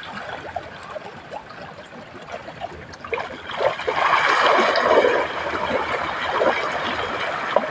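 Water splashing and trickling, growing louder about three seconds in.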